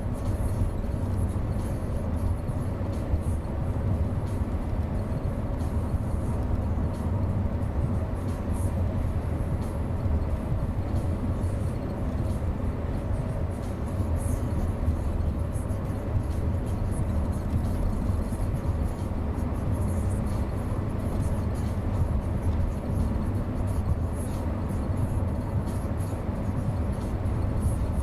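Steady low rumble of a vehicle on the move, even throughout.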